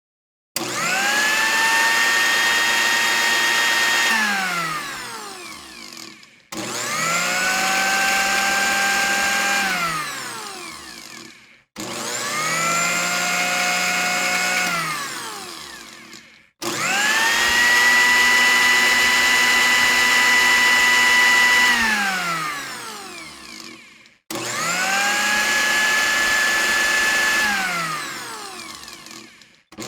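A small electric motor, as in a power drill, run five times in a row: each time it starts suddenly, spins up to a steady high whine, holds for a few seconds, then winds down as it is released.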